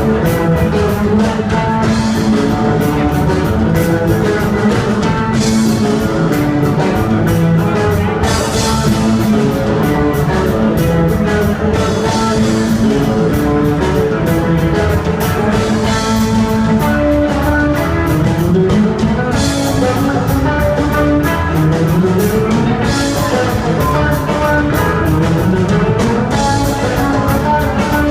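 Live rock band playing an instrumental passage: electric guitars, bass, keyboards and a drum kit, with cymbals keeping a steady beat. A few rising melodic runs come about two-thirds of the way through.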